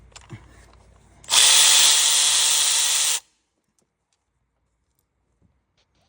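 A handheld power tool's motor runs steadily for about two seconds, starting and stopping abruptly.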